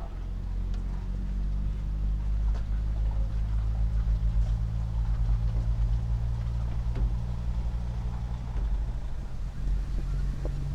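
Semi truck's Paccar MX-13 diesel engine running steadily at cruise, heard as a low drone inside the cab, with road noise and a few faint rattles.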